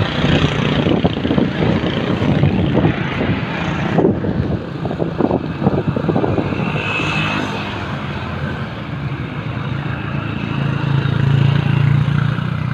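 Wind rushing and buffeting over the microphone during a fast downhill ride, with a low hum swelling near the end.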